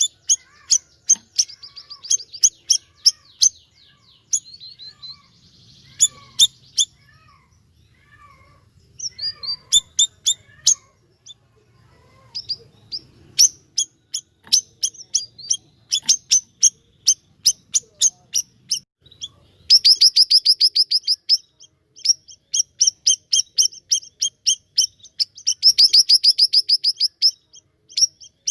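A siri-siri songbird singing energetically: runs of sharp, high chirps, broken by two fast rattling trills about twenty and twenty-six seconds in.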